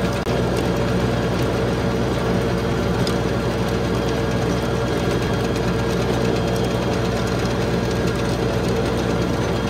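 35 hp LS XR3135 tractor's diesel engine running steadily while it drives the rear tiller through a garden, with a brief dip in level just after the start.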